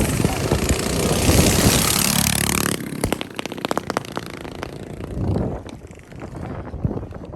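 Small mini bike engine running loud and close, its pitch falling as it goes by about three seconds in. It then carries on quieter and farther off, with short crackling pops.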